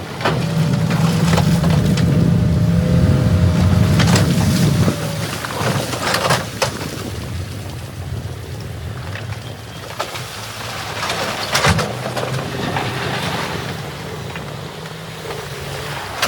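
Heavy earthmoving machine's engine running steadily, louder for the first five seconds then dropping back, with a few sharp clanks and knocks.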